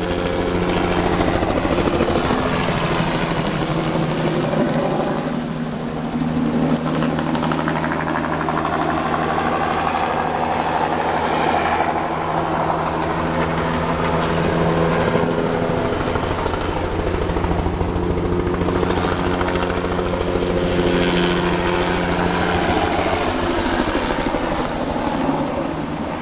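Spray helicopter flying over the tract, its rotor beating in a steady, rapid pulse over the engine. It stays loud throughout, easing off slightly twice and building again as it makes its passes.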